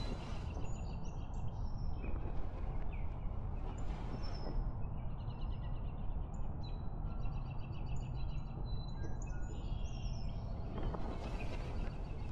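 Small birds chirping and trilling in quick, varied phrases, which stop near the end, over a steady low outdoor rumble.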